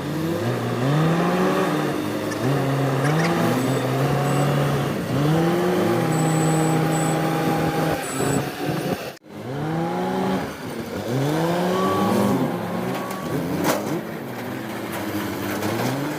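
Diesel engine of a backhoe loader at work, revving up, holding and dropping back again and again. The sound cuts out abruptly for a moment about nine seconds in.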